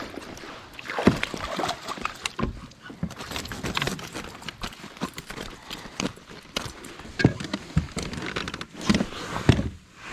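Irregular clicks, knocks and rustles of fishing gear being handled in a kayak.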